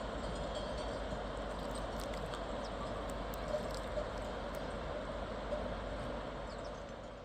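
Steady rushing of a mountain river, with a few faint clicks and brief high chirps over it.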